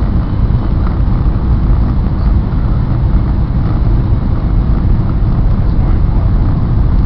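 Steady low rumble of a Taiwan High Speed Rail bullet train at high speed, heard inside the passenger car.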